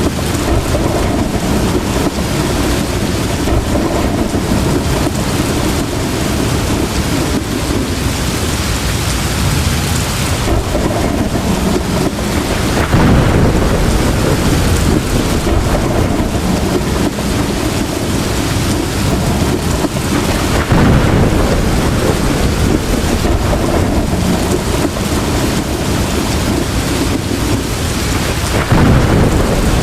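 Heavy rain pouring steadily, with low thunder rumbles swelling up three times: about a third of the way in, about two-thirds in, and near the end.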